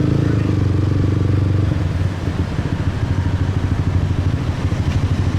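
Motorcycle engine running at low speed, a steady low hum that turns more uneven and pulsing about two seconds in.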